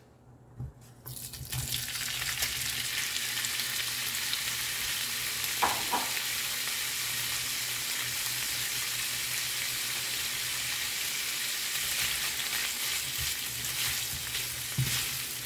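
Sliced smoked turkey sausage hitting hot oil in a nonstick frying pan. It starts to sizzle about a second and a half in and keeps up a steady sizzle, with a couple of knocks in the middle. Near the end a metal spoon stirs and clinks the slices in the pan.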